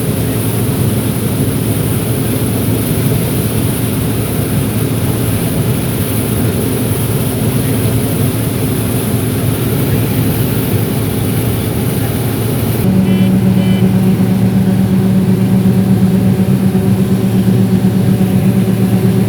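John Deere 9760 STS combine harvester running with a steady diesel engine hum. About 13 seconds in, the sound changes abruptly: a strong low hum comes in and it gets somewhat louder.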